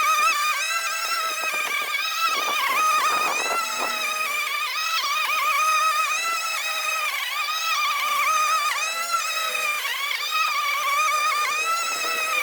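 Einhell GE-CM 18/33 cordless lawn mower running while cutting grass: a steady high electric-motor whine whose pitch dips briefly and recovers again and again.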